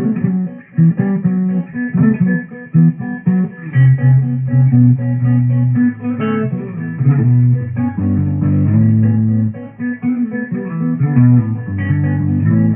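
Solo guitar improvisation: plucked notes that change every fraction of a second, with sustained low notes carrying the line.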